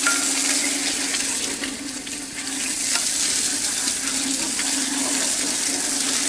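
Food frying at a street food stall, a steady sizzle, over a steady low hum.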